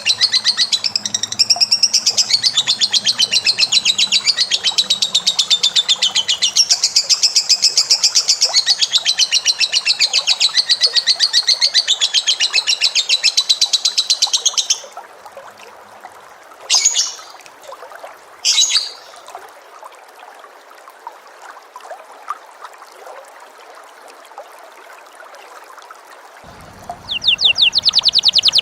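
A cage bird's long, very fast rattling trill, high-pitched and unbroken for about fifteen seconds before cutting off; two short chirps follow a few seconds later, and the rapid trill starts up again near the end.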